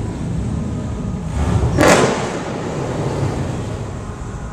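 Steady low rumble of car engines, with one loud rushing burst a little under two seconds in.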